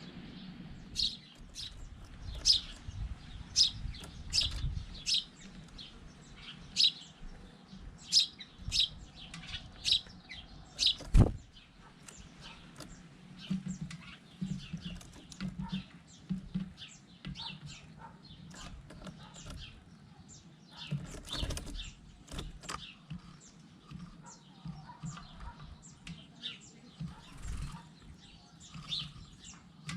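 Small birds chirping, short sharp calls repeating about once or twice a second and thinning out later, with a single loud knock about 11 seconds in.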